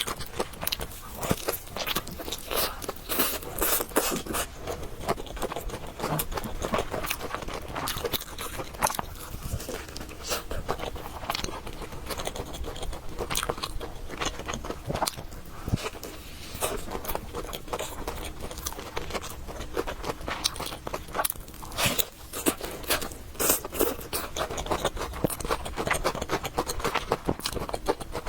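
A person chewing and eating noodles, with a steady run of irregular small clicks, smacks and crunches.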